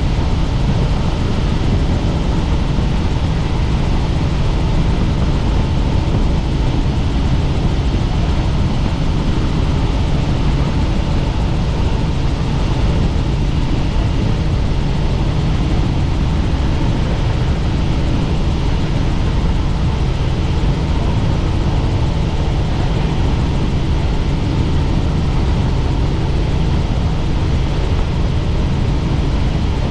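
Helicopter in flight: steady, unbroken rotor and engine noise, heaviest in the deep low end, with a faint steady hum over it.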